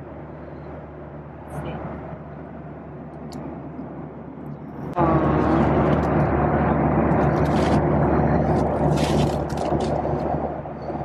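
Steady background hum with a few sharp clicks, then about five seconds in a sudden jump to a much louder, steady rushing noise like an airliner's cabin in flight.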